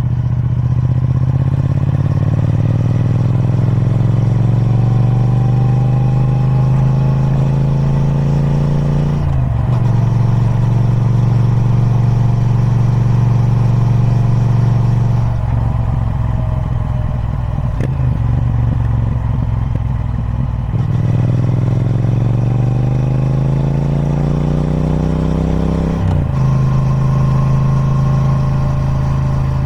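Triumph Speed Twin 1200's 1200cc parallel-twin engine through its stock exhaust, being ridden and pulling through the gears. The engine note rises under acceleration and drops sharply at an upshift about nine seconds in. It then holds steady, eases off around fifteen seconds, and climbs again to another upshift near the end.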